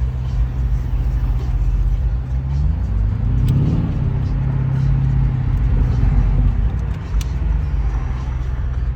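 Lamborghini Urus twin-turbo V8 heard from inside the cabin, running steadily, then accelerating hard about two and a half seconds in. Its pitch rises and holds, then eases off a few seconds later.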